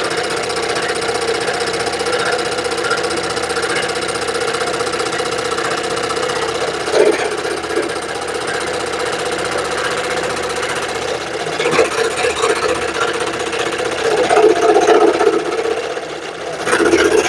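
Scroll saw running and cutting through wood, a steady reciprocating buzz that swells louder a few times, about seven, twelve and fourteen seconds in.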